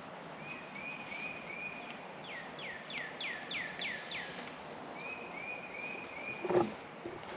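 Songbirds singing: a series of quick down-slurred whistled notes about two a second, overlapping shorter slurred notes and a buzzy high trill, over a steady background hiss. A single knock sounds near the end.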